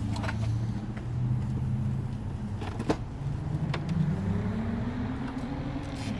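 A car engine running close by, with a steady low hum whose pitch rises gradually over the second half. A few short clicks sound over it.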